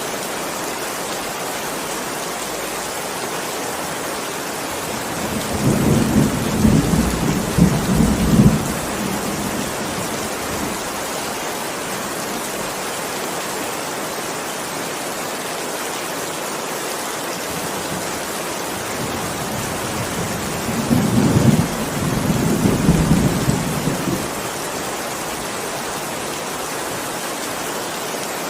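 Steady rain falling, with thunder rumbling twice: once a few seconds in and again about two-thirds of the way through, each roll lasting a few seconds.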